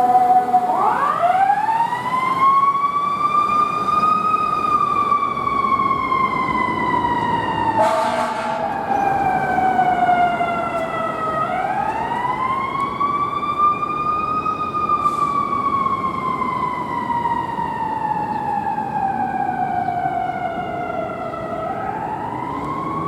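Fire engine's mechanical siren winding up and coasting down, over and over: each time the pitch rises over about three seconds, then slowly falls for about seven before the next wind-up. Short horn blasts cut in about eight seconds in and again near the end.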